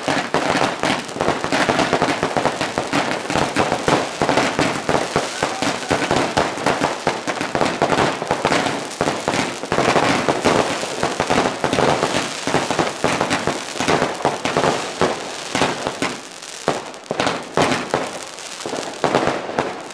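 Fireworks going off, a dense continuous crackling of many small bangs, thinning out near the end.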